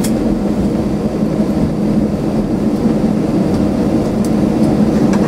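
Steady low rumble inside the cabin of an Airbus A321 taxiing after landing, engines at idle, with a few faint clicks near the end.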